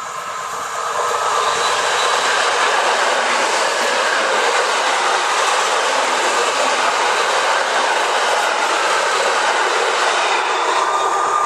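A PKP EN57 electric multiple unit train, three units coupled, passing close by at speed: the rushing rail noise of its wheels and cars swells about a second in and stays loud and steady as the cars go by.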